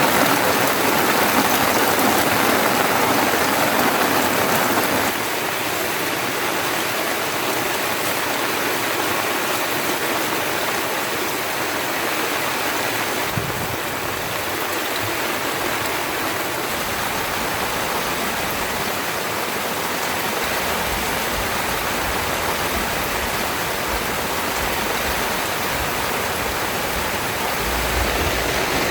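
Heavy rain falling as a steady hiss. A low uneven rumble joins about two-thirds of the way through.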